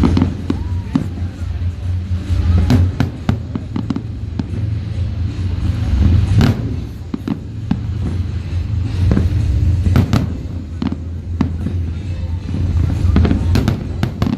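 Fireworks display: shells bursting in an irregular series of sharp bangs and crackles, the biggest about midway and again about two-thirds in, over a steady low rumble.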